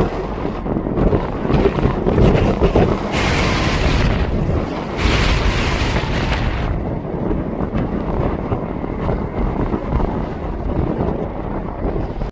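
Strong wind buffeting the microphone: a continuous, gusty low rumble. Two gusts bring a brighter hiss, about three and five seconds in.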